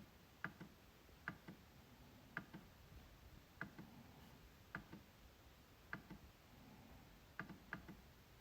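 MacBook trackpad being clicked: sharp, faint clicks at an uneven pace of about one a second, each press followed a moment later by a softer click as it is released. Near the end comes a quick run of several clicks.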